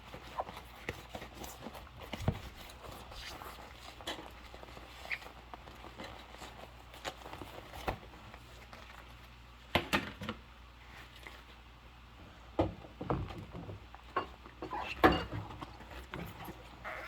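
Rubber-gloved hands washing dishes: scattered clinks and knocks of dishes being handled, with brief glove squeaks. The loudest knocks come about ten and fifteen seconds in.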